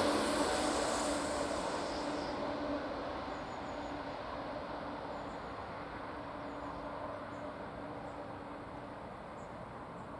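ICE 1 high-speed train running away after passing, its rolling noise fading steadily, the hiss dying out about two seconds in.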